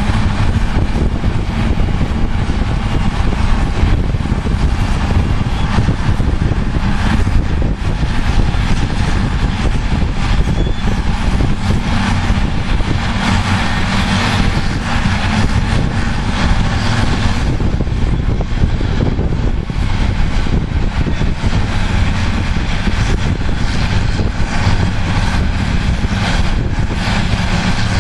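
Heavy diesel engines of Caterpillar tandem-powered 627G/637G scrapers running steadily and loud as they load, a continuous deep engine drone with broad mechanical noise over it.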